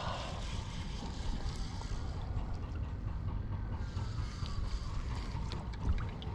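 Outdoor wind rumbling on the microphone, with a faint whine falling slowly in pitch in the second half and a few light ticks.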